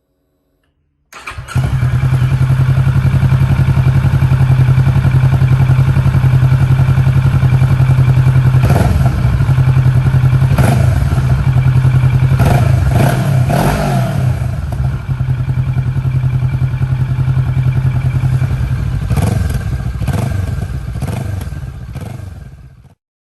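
Kawasaki motorcycle with an SC-Project aftermarket exhaust idling steadily, cutting in about a second in. It is blipped several times in quick succession around the middle and again near the end, and cuts off abruptly just before the end.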